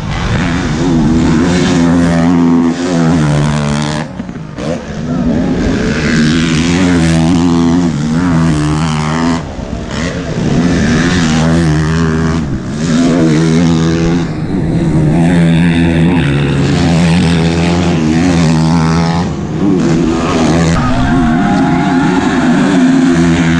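Motocross dirt bike engines revving hard and backing off again and again, the pitch rising and falling every second or two as they race around the track.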